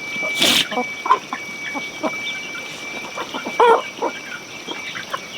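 Chickens clucking in short, scattered calls, over a thin steady high tone, with one brief sharp noise about half a second in.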